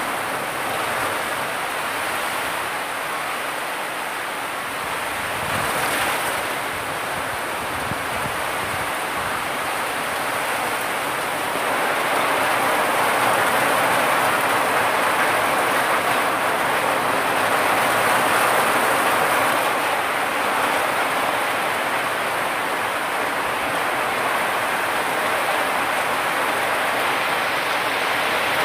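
Heavy rain falling steadily, growing louder about twelve seconds in.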